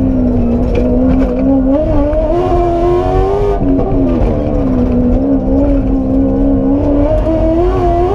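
Aston Martin Vantage rally car's engine, loud from inside the cockpit at racing speed, rising and falling with throttle and gear changes: it climbs in pitch about two seconds in, drops sharply around three and a half seconds, holds steady, then climbs again near the end.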